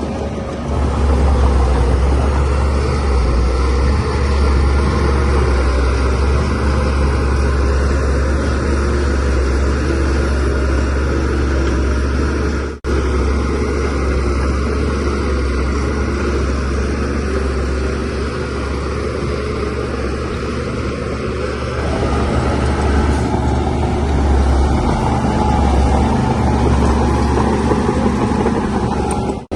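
DH17C3 bulldozer's diesel engine running steadily under load with a deep rumble while pushing soil. The sound gets louder about a second in and cuts out for an instant a little before halfway.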